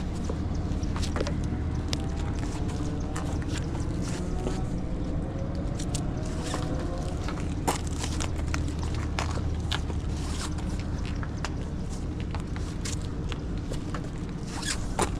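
An engine idling steadily, with scattered clicks and scrapes over it.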